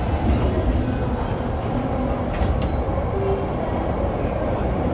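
Tokyo Metro 7000 series subway car (Hitachi IGBT-VVVF inverter) running through an underground section: a steady rumble of wheels on rail, with a brief faint tone about three seconds in.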